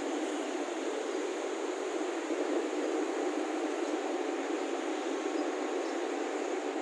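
Electric motor of a lubrication oil pump running, a steady even noise with no changes in pitch or level.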